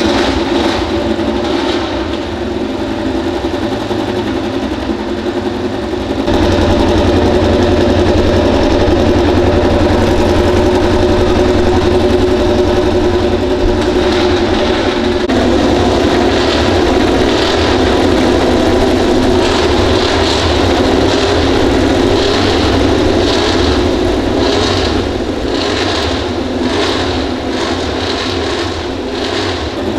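MotoGP racing motorcycle engine running steadily at a high idle, getting louder and deeper about six seconds in, with a run of regular pulses in its sound over the last ten seconds.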